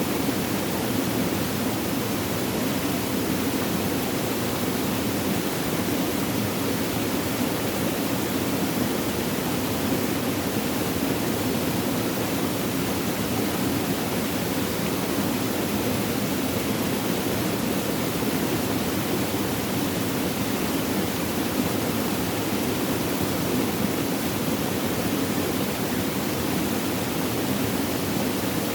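Flowing water: a steady, unbroken rush of running water.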